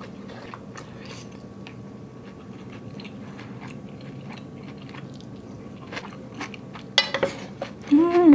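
Close-up chewing and eating of hot pot noodles, with soft wet mouth clicks over a steady low background. About seven seconds in comes a sharp clatter of a wooden ladle in the pot, and near the end a short hummed voice sound.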